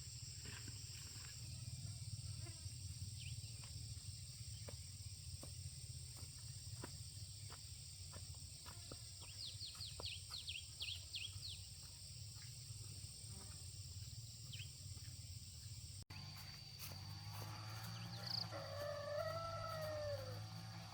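Farmyard ambience: a steady high insect drone with scattered faint clicks and a quick run of chirps near the middle. After a cut, a rooster crows, its call rising and then falling.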